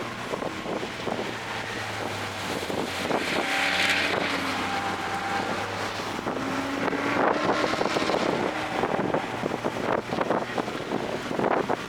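Toyota GR Corolla's turbocharged 1.6-litre three-cylinder engine running at steady, low revs, mixed with wind noise buffeting the microphone.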